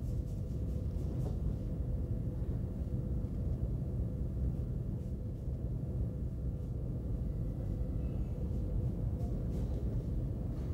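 Steady low background rumble with a faint steady hum running through it.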